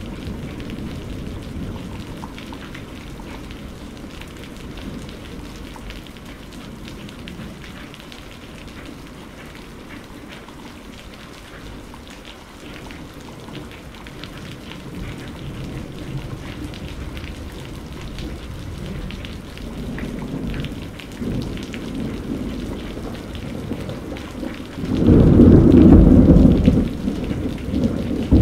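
Steady heavy rain falling, with low rolls of thunder; a loud thunderclap breaks out near the end and rumbles on.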